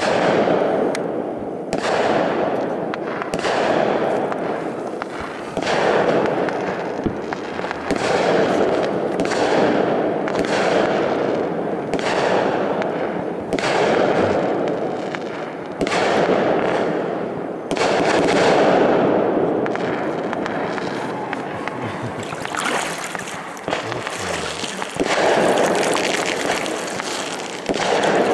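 Aerial fireworks shells bursting in quick succession, a loud bang roughly every two seconds, each followed by a long fading echo.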